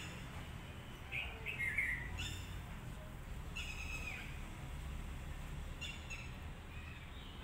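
Birds chirping in short, separate calls, a few seconds apart, over a steady low rumble.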